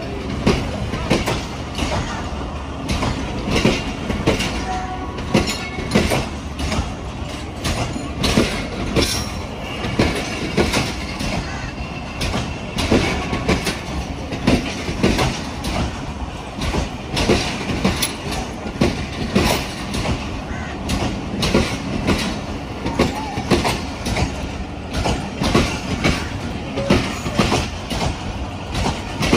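Passenger train coaches rolling slowly past, the wheels clacking over the rail joints over a steady rumble as the train pulls out of the station.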